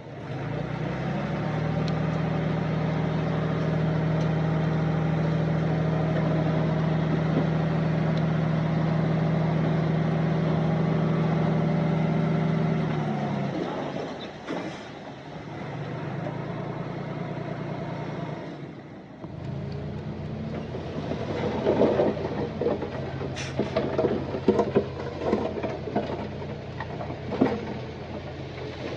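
Heavy diesel earthmoving machinery running hard for the first dozen seconds, then dropping back. After a short break, the engine runs on under a stream of sharp knocks and clattering, like stones being dumped and pushed.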